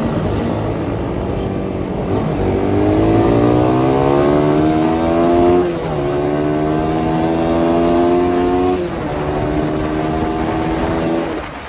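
Suzuki Satria FU 150 (Thai-built CBU) single-cylinder four-stroke motorcycle engine pulling hard, its pitch climbing and then dropping sharply twice as it shifts up through the gears, before fading away near the end.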